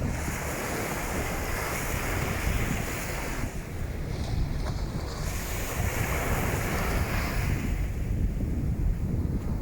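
Wind buffeting the microphone with a constant low rumble, while waves wash onto the beach. The surf hiss swells and fades twice.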